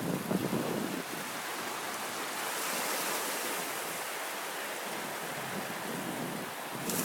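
Ocean surf washing onto a beach, a steady rushing hiss that swells about a third of the way in. Wind buffets the microphone with low rumbles during the first second.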